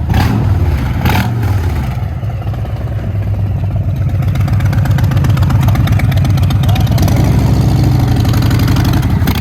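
2021 Harley-Davidson Fat Boy 114's Milwaukee-Eight 114 V-twin running through a Big Radius aftermarket exhaust, a loud, deep pulsing note. The engine note builds somewhat in the second half.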